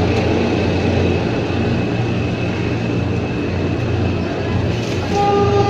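Ex-JR 203 series passenger train running on Philippine National Railways track: a steady rumble of the train in motion. About five seconds in, a train horn begins to sound.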